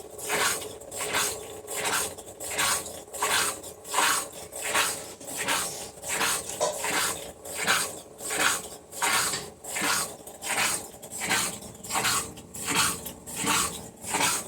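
Electrolux LS12Q washing machine running, with a rasping swish that repeats steadily about one and a half times a second.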